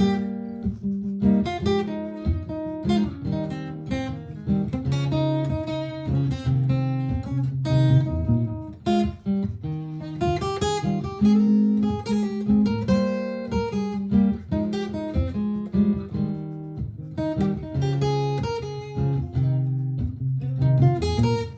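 Martin GPCPA4 acoustic guitar playing an instrumental improvisation through a looper pedal: picked and strummed notes over a repeating guitar part with held low notes.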